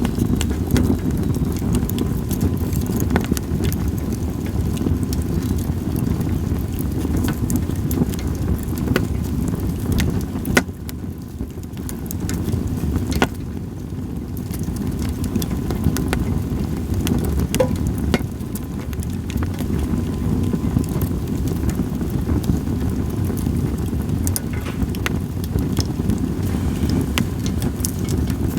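Campfire of split sawtooth oak (kunugi) logs crackling, with sharp pops scattered irregularly throughout. Under it runs a steady low rumble of wind on the microphone, which is the loudest sound.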